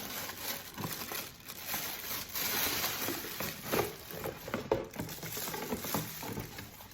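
Hair dryer's retail packaging being opened by hand: a steady crinkling and rustling with many small clicks and knocks, easing off near the end.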